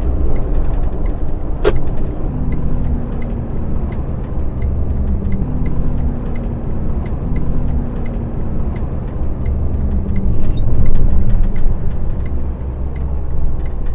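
Truck cab interior: the diesel engine runs with a steady low rumble. A turn indicator ticks evenly at about one and a half ticks a second, with one sharp short sound about two seconds in.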